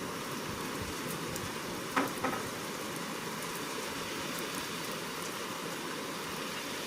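Steady rain hiss during a thunderstorm, with two short sharp sounds close together about two seconds in.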